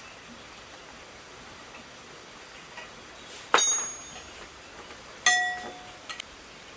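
Two sharp clinks of hard metal parts, about two seconds apart, each ringing briefly, with a few lighter clicks around them.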